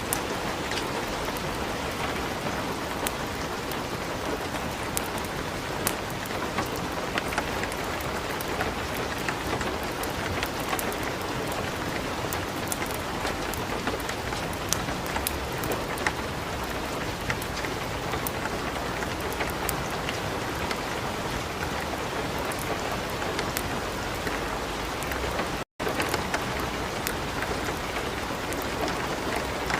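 Steady light rain mixed with a wood fire crackling in a fireplace, with many small sharp crackles and drops over an even hiss. The sound cuts out completely for an instant about 25 seconds in.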